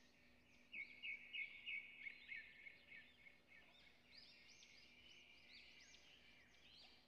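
Faint birds chirping: a quick run of short chirps about a second in, then scattered calls.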